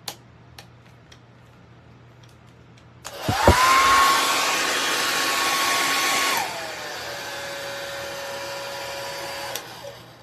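Revlon compact 1875 W travel hair dryer switched on, its motor whining up fast to a steady high-speed blow. About three seconds later it drops to the low setting with a lower, quieter whine, and near the end it is clicked off. A few light handling clicks come before it starts.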